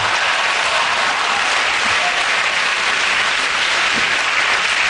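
Studio audience applauding, loud and sustained.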